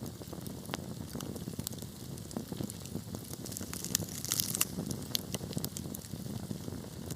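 Wood fire burning in a fireplace, crackling with scattered sharp pops over a low steady rumble of flames, with a quick flurry of crackles about four seconds in.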